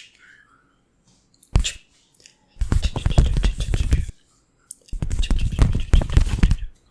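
ASMR hand chopping on the microphone: quick, rapid strokes in two runs of about a second and a half each, the second starting about five seconds in.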